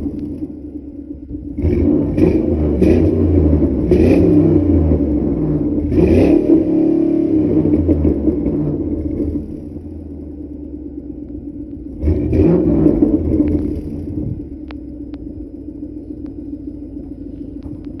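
Exhaust of a Ford Crown Victoria Police Interceptor's 4.6 L V8, breathing through Flowmaster 40 mufflers on a Mercury Marauder catback. It idles, is blipped several times in quick succession, is held up in a longer rev around six seconds and falls back to idle. Near twelve seconds there is another short burst of revs before it settles back to a steady idle.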